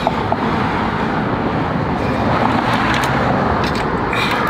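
Steady road traffic noise, with a few light clicks.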